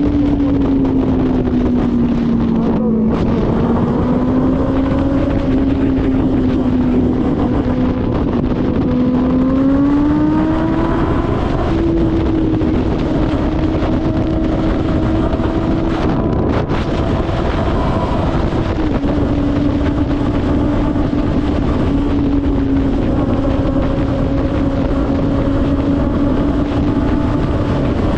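Kawasaki ZX-6R inline-four engine running at steady cruising speed under heavy wind rush. Its note climbs about ten seconds in and drops slightly a little past halfway.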